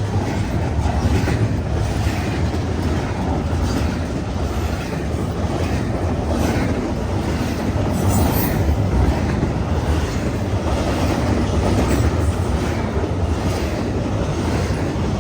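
Freight cars rolling steadily past, with a continuous low rumble of wheels on rail and irregular clicking and knocking from the wheels and car joints.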